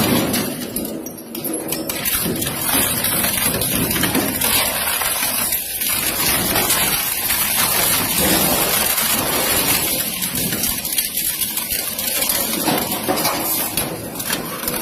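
Shredder/crusher machine running and grinding material, a loud continuous noise spread from low to very high pitches.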